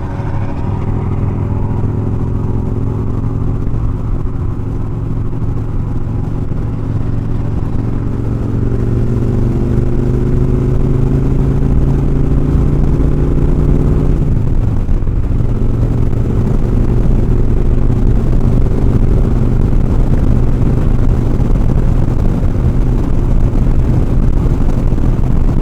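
Motorcycle engine running under way, with wind and road noise. Its note climbs slowly, drops suddenly about fourteen seconds in, then holds steady.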